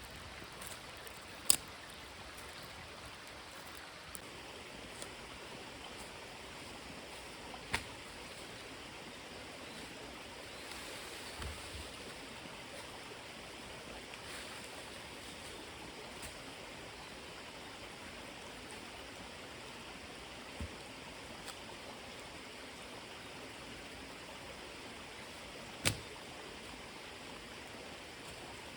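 Steady rushing of a small stream, with a few sharp clicks or knocks standing out about a second and a half in, around eight seconds in and near the end.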